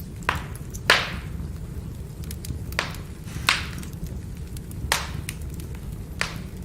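Firewood burning: a steady low rush from the flames with scattered faint crackles and six sharp pops, the loudest about a second in.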